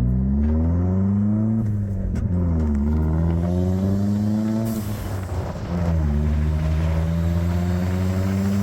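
Turbocharged 1.4-litre four-cylinder engine revved three times, its pitch rising and falling between blips, with the last rev held higher. A short hiss near the middle comes as the throttle closes: the atmospheric blow-off valve venting boost.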